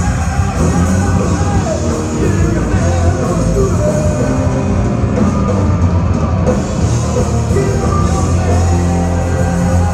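Loud rock music with a singer over a strong steady bass.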